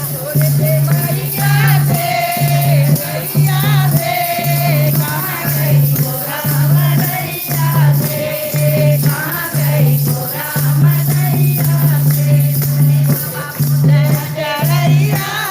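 Devotional bhajan music: a sung melody over a steady low note that keeps returning, with percussion keeping a regular beat.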